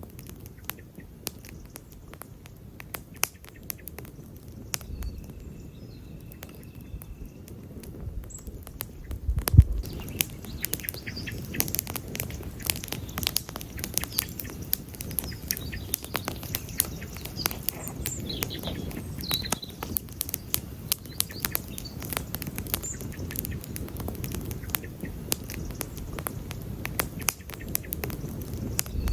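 Wood campfire crackling and popping over the low rush of the flames, with one louder pop and thump about ten seconds in, after which the crackling grows denser. A thin steady whistle sounds for about two seconds around five seconds in.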